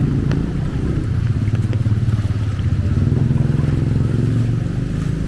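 A small engine running steadily close by.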